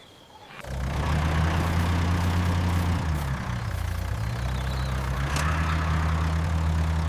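A vehicle engine sound effect comes in about a second in and runs steadily, with a brief dip in pitch midway.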